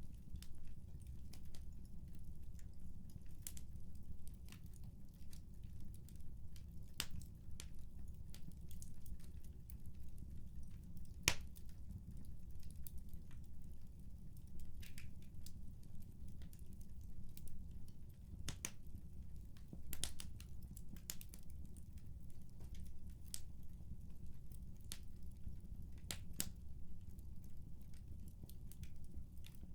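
Fire crackling in a fireplace: irregular sharp pops and snaps over a steady low rumble, with one louder pop about eleven seconds in.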